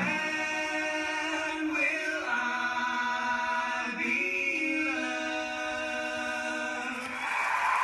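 Male voices, a father and his three sons, singing a cappella in close harmony, holding long chords that shift about two and four seconds in. The final chord ends about seven seconds in as an even wash of crowd noise swells up.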